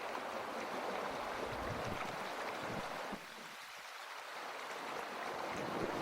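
Mountain stream rushing steadily over rocks. It drops abruptly about halfway through and builds back up near the end.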